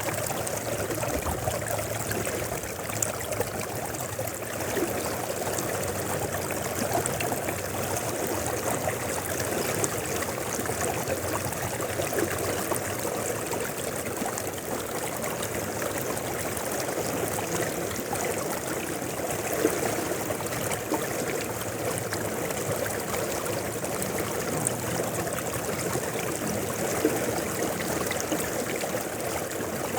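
A mountain river flowing steadily, water running and babbling continuously over its bed.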